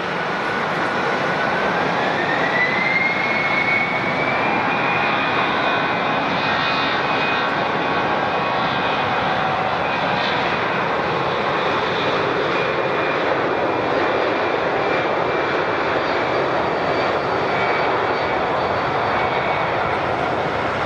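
Jet airliner's engines running, a steady loud roar with a whine that rises in pitch about two seconds in and then holds steady.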